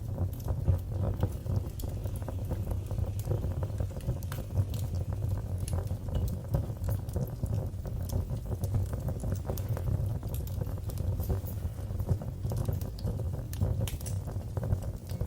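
Wood fire burning in a fireplace, with a low steady rumble and many irregular sharp crackles and pops.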